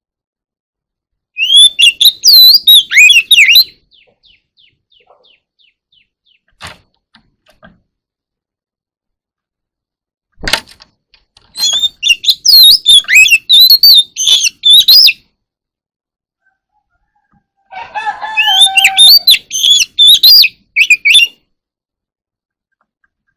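Oriental magpie-robin singing: three loud bursts of rapid, varied whistled notes with pauses between, and soft quiet notes after the first burst.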